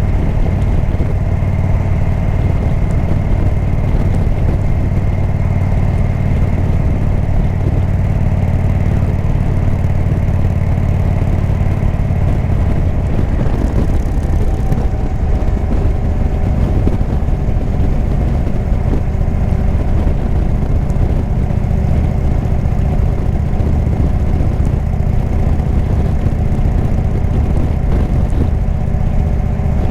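Indian V-twin motorcycle engine running steadily under way, through a Jekill & Hyde exhaust. The engine note shifts slightly about halfway through.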